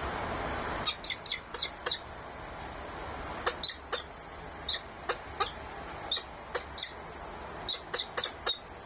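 A bird giving short, sharp, downward-sweeping calls in quick runs of three or four, about eighteen in all, over a steady rushing background that drops away about a second in.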